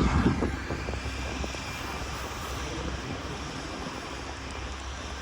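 A motor vehicle's engine running and passing, a steady rumble with a louder thump right at the start that eases off slightly.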